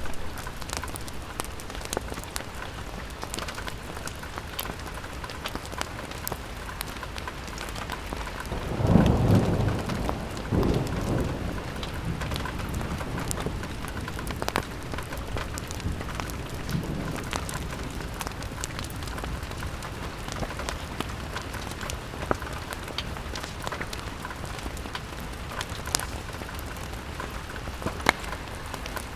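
Steady rain on window glass with many scattered sharp drop taps, and a low rumble of thunder about nine seconds in that rolls on for a couple of seconds, with a fainter rumble later.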